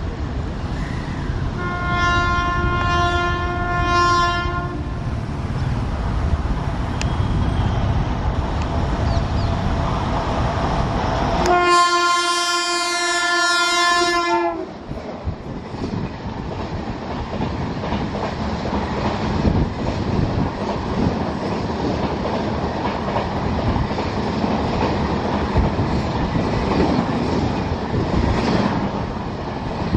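WAP-7 electric locomotive passing at speed, sounding its horn twice: a blast about two seconds in and a longer, louder one around twelve seconds in as it draws level. Then the steady rumble and wheel clatter of LHB passenger coaches rolling by.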